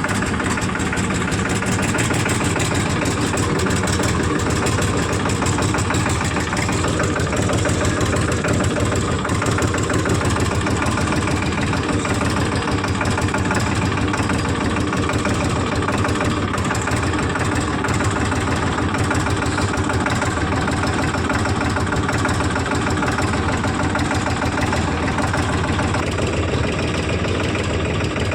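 Heavy diesel engine running steadily at an even speed, with a dense, regular firing beat.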